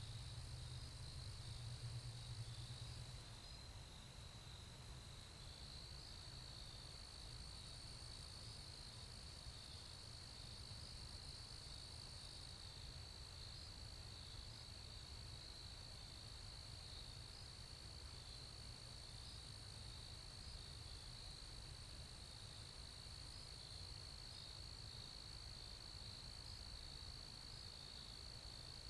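Faint, steady chorus of insects such as crickets: a continuous high-pitched trill running unbroken throughout, over a low rumble.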